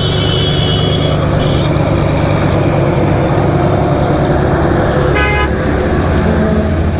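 Road traffic passing with a steady engine drone, and vehicle horns: a wavering horn near the start and a short toot about five seconds in.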